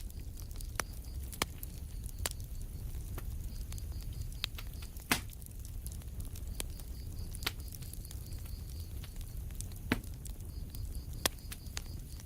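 Wood fire crackling in a fireplace: irregular sharp pops and snaps over a steady low rumble of burning, with the loudest pops about five seconds in and near ten seconds.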